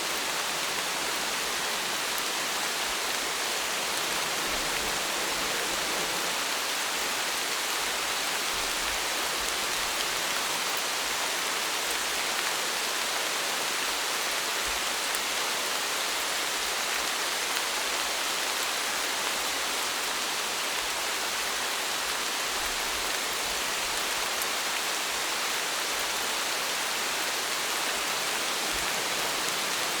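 Steady rainfall, an even hiss of many drops falling on a surface, with no change in intensity.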